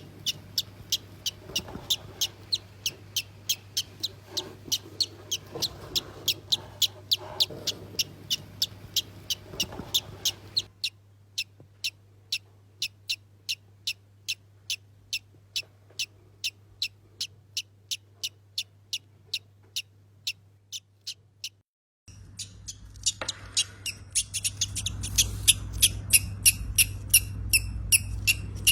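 A newly hatched baby bird peeping: short, high cheeps repeated evenly about two or three times a second, over a low steady hum.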